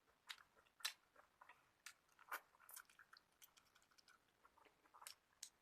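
Faint, close-up chewing of shrimp, with irregular wet mouth clicks and smacks, a few sharper ones about a second in and again near the end.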